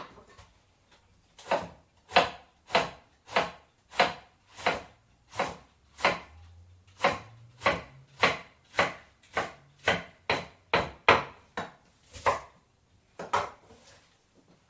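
Knife chopping salad vegetables on a cutting board: about twenty even, steady strokes, a little under two a second, quickening slightly near the end before a last stroke.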